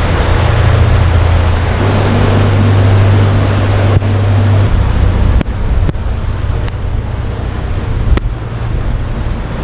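Narrowboat's diesel engine running steadily inside a brick canal tunnel, a loud low hum with a wash of noise around it; the hum shifts a little about halfway through. A few sharp clicks sound in the second half.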